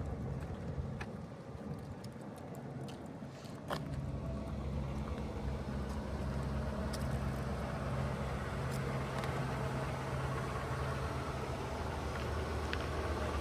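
The 1977 Cadillac Eldorado's 425 V8 idling steadily. A few light clicks come early on, and the engine sound grows louder about four seconds in.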